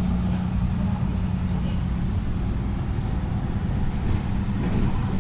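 Steady low rumble of a motor vehicle on the move, engine and road noise with a constant low hum.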